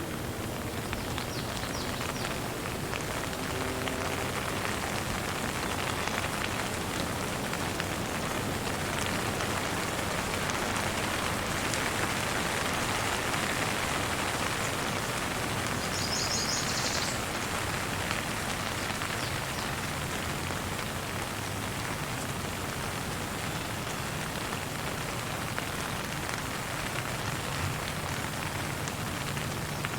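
Steady rain falling, an even hiss of drops on surfaces. About halfway through, a bird gives a brief run of quick high chirps over the rain.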